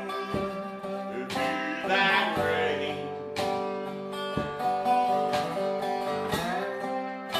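Acoustic guitar strumming slow blues chords, each strum left ringing.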